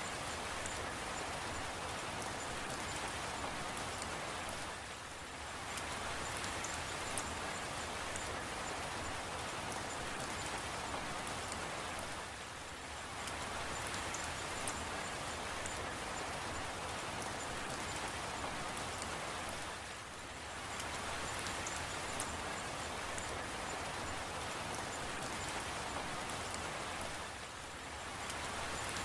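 Steady rain with scattered drop ticks, easing briefly about every seven to eight seconds.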